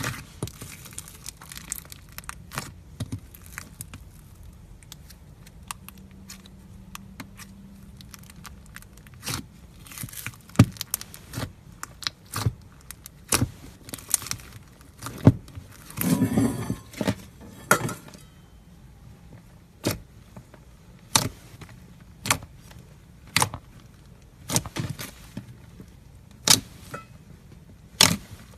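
Foam-bead slime being squeezed and poked by hand, giving irregular sharp pops and clicks, with a longer stretch of crackling a little past halfway.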